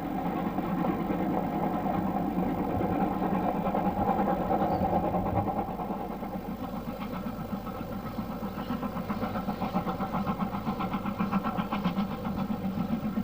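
An engine running steadily at an even pitch, with a fast regular beat that comes up more clearly about halfway through.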